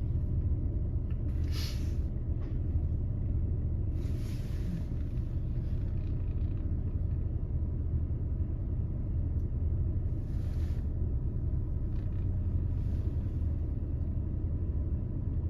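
Steady low rumble of diesel locomotives running, with a few short hisses: one about two seconds in, a longer one around four seconds, another near ten seconds and a faint one near the end.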